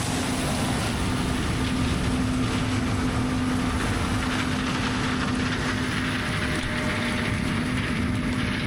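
Heavy diesel harvest machinery running steadily under load, with a constant hum over a broad mechanical noise.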